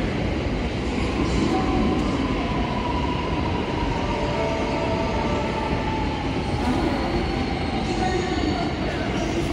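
JR West 323 series commuter train pulling slowly into the platform, its running gear rumbling steadily with a faint whine that slowly falls in pitch as it brakes.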